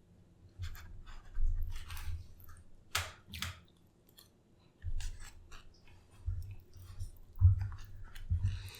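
Close-miked chewing of food, with irregular wet mouth clicks and smacks; a short lull about halfway, then the loudest smack near the end.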